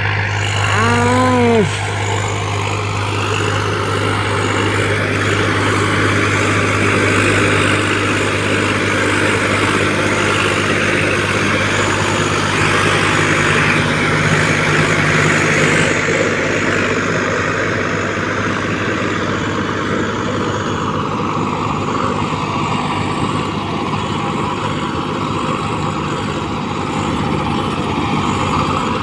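Swaraj 744 XT tractor's diesel engine running steadily while it drives a rotavator. About a second in, a single short moo, rising and then falling in pitch, sounds over the engine.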